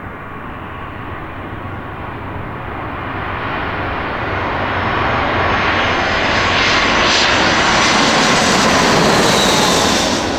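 Jet airliner passing low overhead, its engine noise growing steadily louder and brighter to a peak near the end, with a high engine whine falling in pitch as it goes by.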